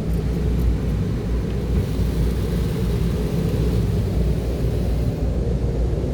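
Automatic cloth car wash machinery running: a steady low rumble, with a rushing noise of water spray or air that swells about two seconds in and fades near the end.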